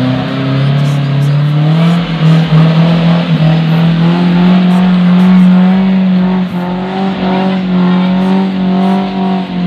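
Off-road 4x4's engine revving up in the first two seconds and then held at high revs under load as the vehicle claws its way out of deep mud.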